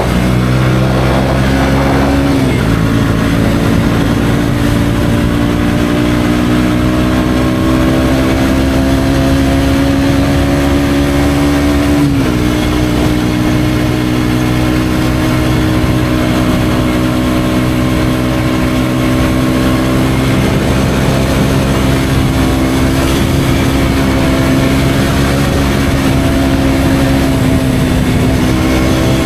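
KTM Duke 125's single-cylinder four-stroke engine running under way through an Akrapovic exhaust, its engine speed dropping sharply twice, about two and twelve seconds in, as on upshifts, then holding and drifting slowly with the throttle.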